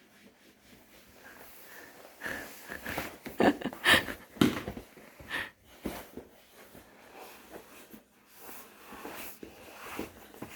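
A toddler wiping with a wet wipe: irregular rubbing and scuffing strokes with brief squeaks, loudest in a cluster about four seconds in.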